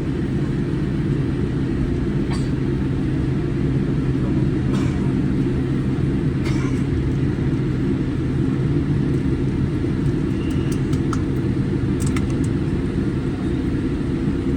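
Steady low rumble inside an airliner cabin as the Boeing 787 taxis after landing, with the engines at idle. A few faint clicks are heard now and then.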